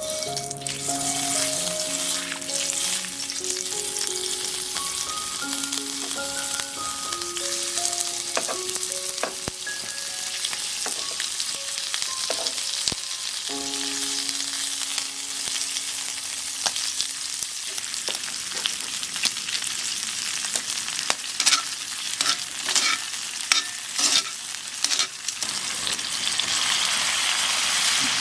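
Liver and garlic chives sizzling in a hot pan as they are stir-fried, a steady hiss, with a run of sharp clicks of a utensil against the pan in the later part.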